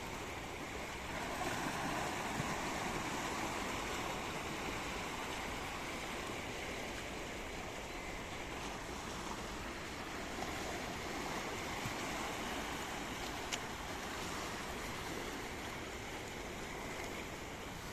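Sea waves washing ashore: a steady rush of surf that swells a little louder about a second and a half in.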